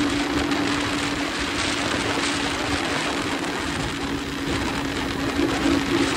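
MH Drift 150 motorcycle engine holding a steady drone at cruising speed under heavy wind rush on the microphone; near the end the engine note wavers slightly.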